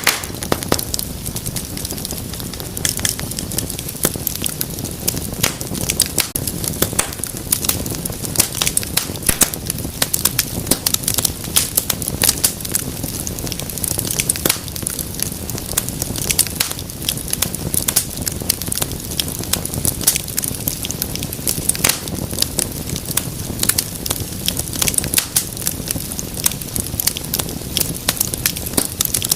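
Fire crackling and popping with many quick, irregular snaps over a steady low rush of flame.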